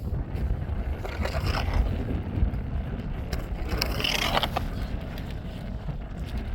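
Wind rumbling against the microphone, with two short scrapes, about a second in and again around four seconds in.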